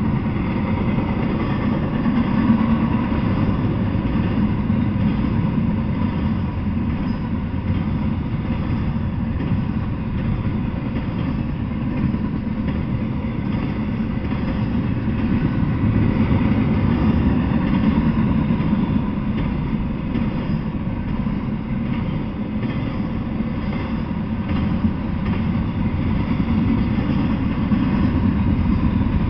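Double-stack intermodal freight train rolling past, its container well cars giving a steady low rumble on the rails.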